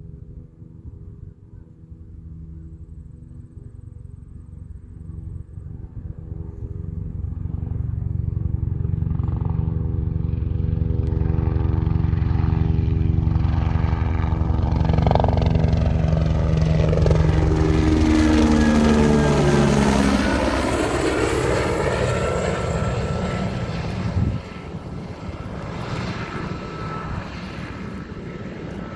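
Helicopter flying over: its rotor drone grows louder as it approaches, is loudest passing overhead about two-thirds of the way in, dropping in pitch as it goes by, then fades as it moves away.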